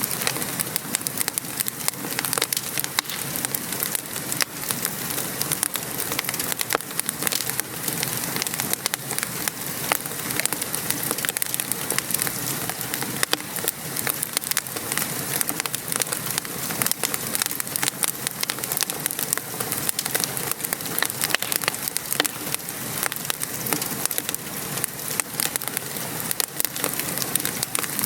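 Wood fire crackling with frequent small pops over the steady hiss of rain falling.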